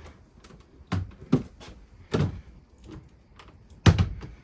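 A few sharp knocks and clunks, the loudest about four seconds in.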